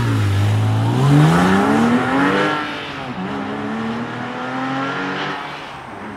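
Car engine revving: it climbs steadily in pitch for about two and a half seconds, drops back, then climbs again more slowly before easing off.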